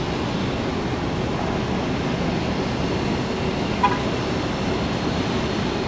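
Steady rumbling noise, with a single short high blip about four seconds in.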